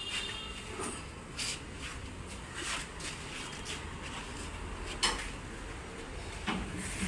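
Irregular metallic clinks and knocks, a handful of separate strikes with the sharpest about five seconds in, over a steady low hum.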